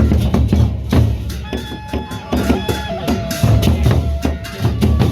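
Loud music from a Sasak wedding-procession band: a fast drum beat over a heavy bass, under a melodic lead line that holds and bends its notes.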